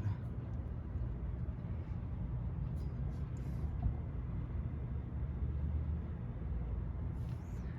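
Steady low rumble of background vehicle noise, with a few faint clicks about three seconds in and again near the end.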